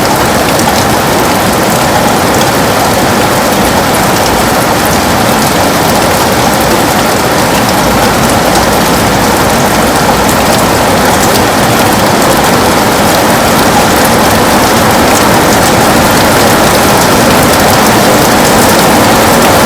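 Heavy rain pattering on a window, a dense steady hiss with fine drop ticks, growing slightly louder toward the end.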